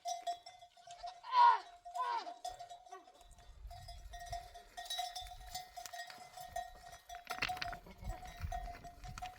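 Livestock bells on a flock of sheep or goats ringing and clinking steadily. An animal bleats twice about a second and a half in, and a low rumble comes in during the second half.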